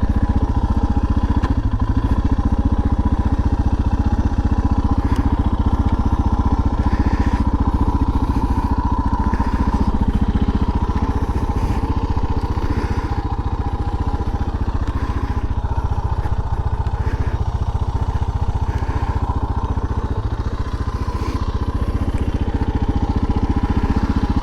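Suzuki DR650's single-cylinder four-stroke engine running steadily as the bike is ridden, with a few short knocks scattered through.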